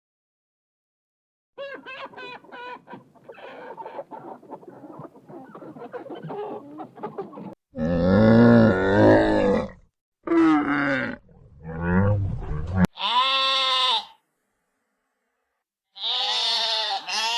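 A string of separate animal calls with abrupt cuts between them: a quieter run of busy calls, then a loud low drawn-out call about eight seconds in, more calls after it, and high wavering calls near the end.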